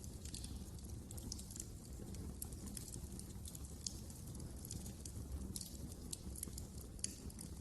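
Wood fire burning in a fireplace: a steady low rumble of the flames with frequent irregular crackles and pops, one sharper pop about seven seconds in.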